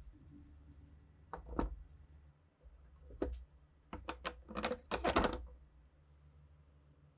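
Hand-handled rifle parts and tools giving a few scattered sharp clicks and knocks, then a quick cluster of them about four to five seconds in, over a faint steady low hum.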